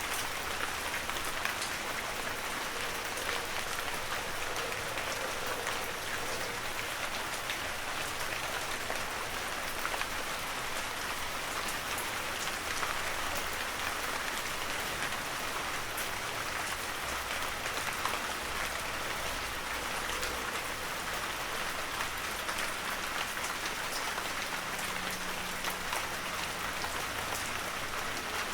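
Heavy rain falling steadily, a dense even hiss of drops with many small individual drop ticks.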